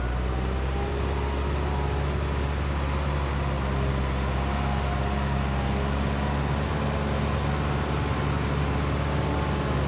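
Vehicle engine running steadily while driving, a low even hum with road noise.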